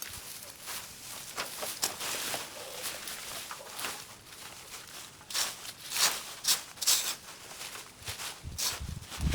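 Irregular rustling and crackling of vines and brush being pulled and cut, with a few louder sharp snaps about five to seven seconds in and a low thud near the end.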